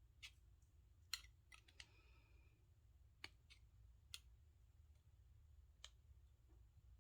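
Sparse small metallic clicks and taps of hand tools and parts working apart a brass doorknob, about eight in all, the loudest about a second in, followed by a brief faint ring. A steady low hum lies underneath.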